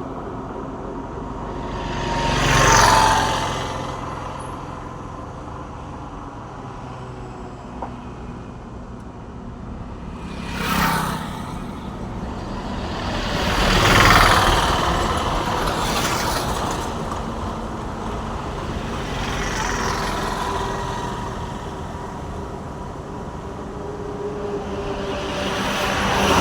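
Road traffic going past: about five vehicles pass one after another, each a swell of engine and tyre noise that rises and fades. A steady low hum carries on between them.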